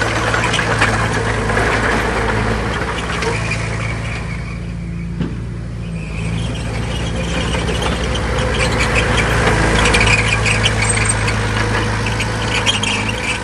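Heavy diesel earthmoving machinery running steadily under load, with dense metallic clattering over the engine drone. The clatter eases for a moment around the middle.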